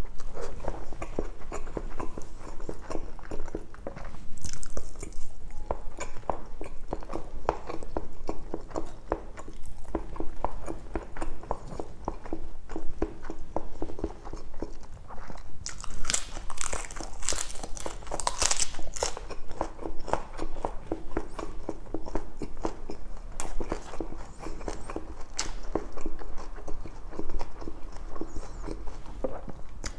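Close-up chewing, biting and lip-smacking of a person eating soft pork belly adobo in coconut-milk sauce, with a louder, crisper run of mouth noises about halfway through.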